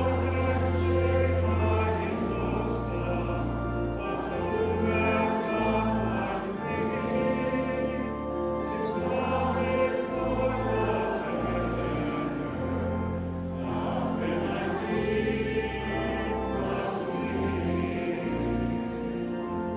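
Choral music: voices holding long chords over a bass line that changes note every second or two.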